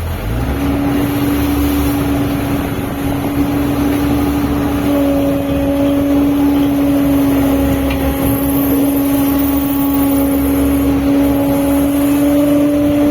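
Fishing boat's engine running under way, a steady hum that sets in about half a second in and holds level, with the rush of wind and water beneath it.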